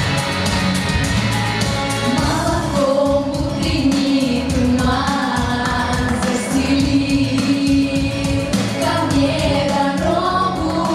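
Singers performing a pop song over a backing track with a steady beat; the voices come in about two seconds in after a short instrumental passage.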